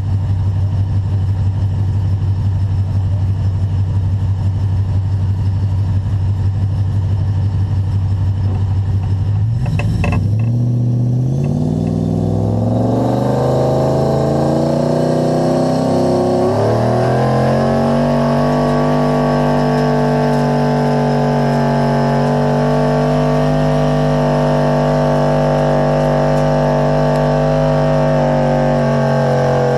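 Dodge Ram 2500's 5.7-litre Hemi V8 running steadily at low revs, then revving up about a third of the way in, climbing in pitch in two steps and held at high revs under load while pulling a sled.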